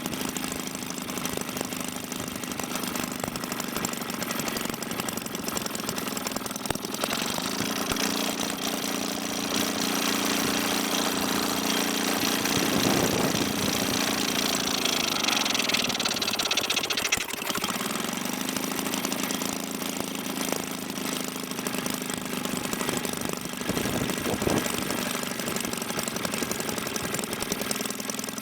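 Maytag Model 72D twin-cylinder two-stroke washing-machine engine running steadily on its carburetor. Its speed picks up about a quarter of the way in, runs faster for around ten seconds, then drops back and settles to a steady run.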